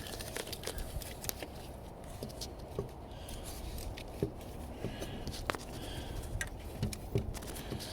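Scattered small clicks and rustles of hands handling parts in a truck's engine bay, over a low steady rumble.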